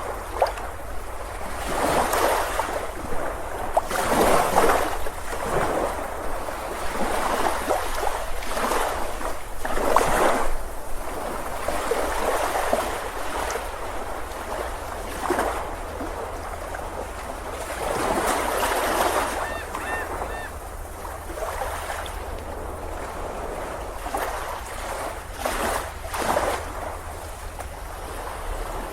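Ocean surf on a beach: waves breaking and washing in, swelling and easing every few seconds, with the biggest surges about 4 and 10 seconds in.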